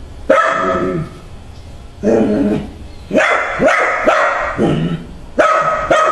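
Dog barking repeatedly: about seven loud barks, several in quick succession in the middle.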